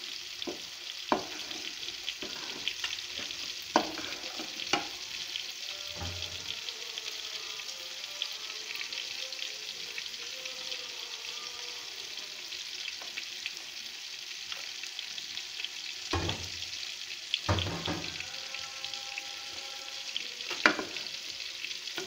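Cauliflower fry sizzling in a metal pot while it is stirred with a wooden spatula: a steady sizzle with scattered knocks and scrapes of the spatula against the pot, a few louder knocks near the start and again towards the end.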